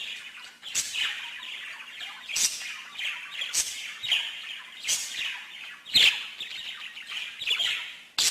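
Small songbird singing a dense run of rapid chirps and twitters, punctuated by sharp, loud strokes about every second or so.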